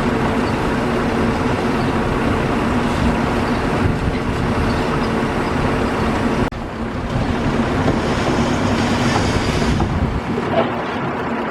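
Strong wind buffeting the microphone, a dense, loud rumble with a sudden break about six and a half seconds in.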